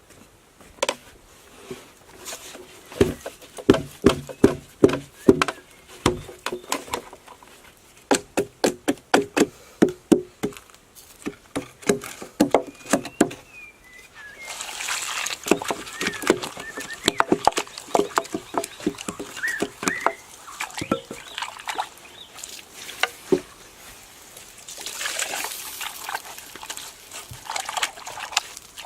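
Quick runs of sharp knocks on wood, several a second. From about halfway, water pouring and splashing takes over, with scattered knocks.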